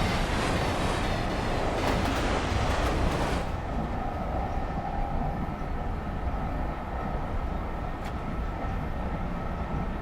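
Train running along the track with a steady rumble. A loud hiss drops away suddenly about three and a half seconds in, leaving a quieter, even rumble.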